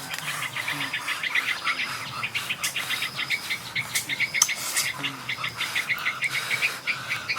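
Birds chirping in a fast run of short, repeated chirps, about six a second.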